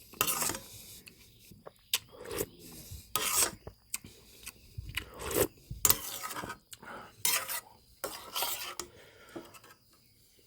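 Close-miked eating sounds over a bowl of tom yum goong soup: a series of short, irregular rasping and rubbing noises with a few sharp clicks between them.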